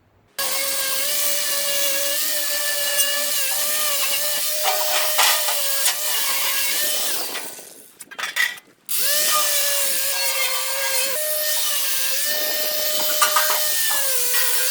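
Hand-held electric power tool cleaning down the fireplace's steel before painting: a steady high motor whine with a grinding hiss, its pitch dipping briefly as it is pressed to the work. It winds down and stops a little past halfway, then starts again about a second later and runs on.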